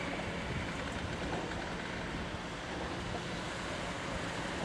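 Track-laying train's loaded flat wagons rolling slowly past on the rails: a steady, even rumble with a faint low hum, mixed with wind on the microphone.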